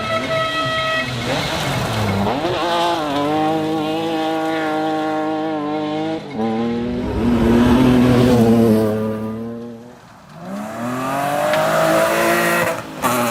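Rally car engine at high revs, holding a steady note with a short break for a gear change about six seconds in. It drops away to its quietest around ten seconds in as the driver lifts off, then climbs again in a long rising note under acceleration.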